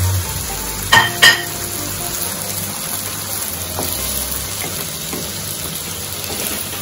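Food sizzling in a frying pan as it is stirred, with two sharp, ringing knocks of a utensil against the pan about a second in.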